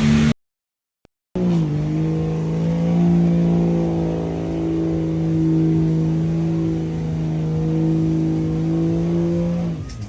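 A vehicle engine, likely a truck's, held at a steady speed for about eight seconds, settling slightly in pitch as it starts, after a short break in the sound.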